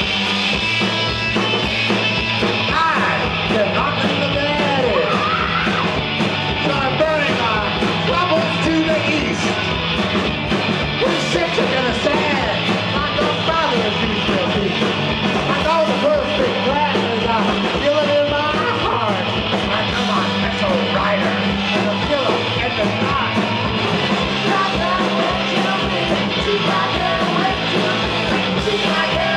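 Live rock band playing loudly: electric guitars, bass and drums, with wavering lead lines over a steady low bass.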